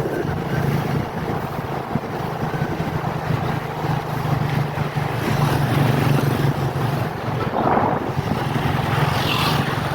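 Steady low drone of a passenger ship's engines under way, with wind rushing over the microphone.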